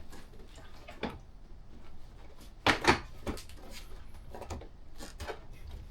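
Knocks and clunks from handling and seating a motorcycle seat on the bike. There is a single knock about a second in and a louder pair near the middle, then lighter taps.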